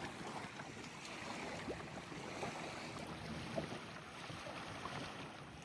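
Steady outdoor wind and water noise, with a few faint light ticks.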